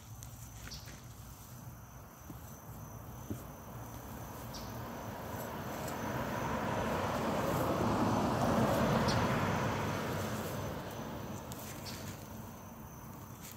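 A car passing by, its tyre and engine noise swelling to a peak about halfway through and then fading away, over a steady high insect hum.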